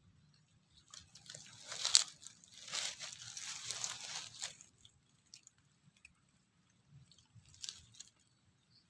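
Crunching and chewing of crisp fried sparrow, bones and all. The loudest crunch comes about two seconds in, the chewing runs on for a couple of seconds, and one more short crunch comes near the end.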